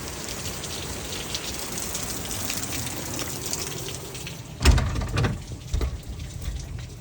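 Storm outside: a steady hiss of rain and wind. About two-thirds of the way in there is a sudden loud thump, followed by a few seconds of low rumbling buffets.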